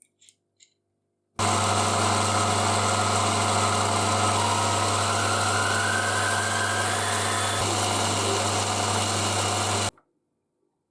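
A workshop machine running steadily, a strong low hum under a broad hiss, with a faint rising whine in the middle. It starts abruptly after two faint clicks and cuts off abruptly near the end.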